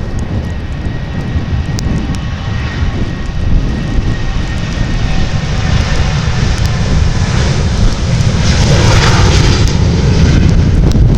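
Airliner engines running as an aircraft passes, getting louder over the last few seconds, with steady wind rumble on the microphone underneath.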